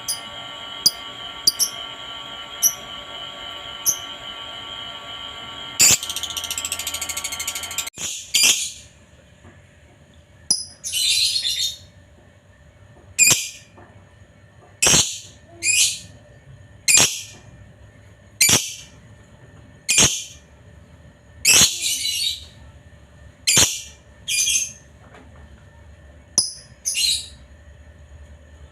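Lovebird calling with short, shrill chirps. At first a few quick small chirps sound over a steady hum. From about eight seconds in come loud, sharp calls repeated every second or two.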